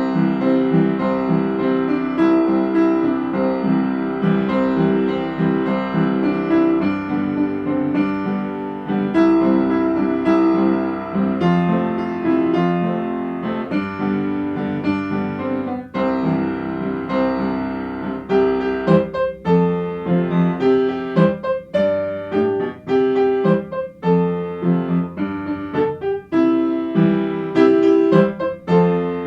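Slow, gentle piano music with sustained chords; the notes are struck more distinctly in the last third.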